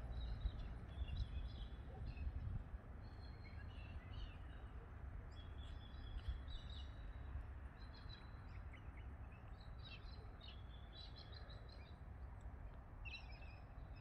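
Birds chirping, with many short, high calls and trills scattered throughout, over a low rumble that is stronger in the first couple of seconds.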